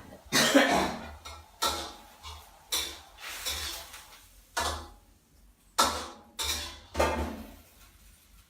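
Kitchen clatter during vegetable preparation: about nine separate knocks and clinks of utensils and dishes, each sudden and fading quickly, at an uneven pace.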